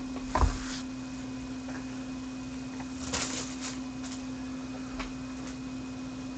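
Steady low electrical hum with a soft knock about half a second in, a brief rustle around three seconds in and a small click near five seconds: trading cards and packaging being handled at a table.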